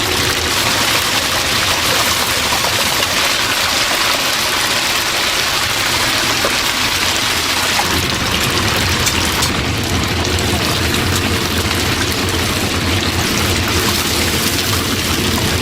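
Chicken deep-frying in a vat of hot oil, sizzling steadily.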